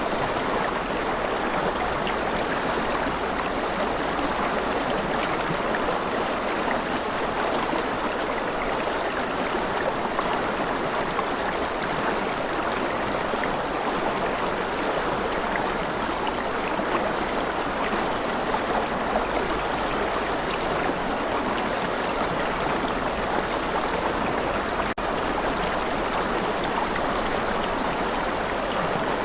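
A rushing river: a steady, unbroken rush of flowing water.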